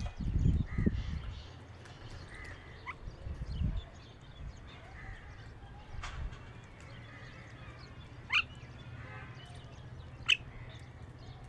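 Birds calling: scattered short calls, with a few sharp quick sweeps standing out, the loudest about eight seconds in and near the end. A low rumble sits under the first second or so.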